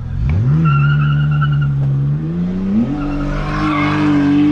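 BMW drift car's engine revving: the note climbs in the first second, holds, then climbs again and stays high, with tyres squealing as the car slides near the end.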